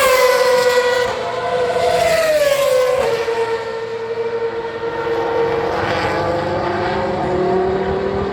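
Ferrari Formula 1 car engine running at high revs, its pitch falling twice in the first three seconds, then holding fairly level and rising slightly near the end.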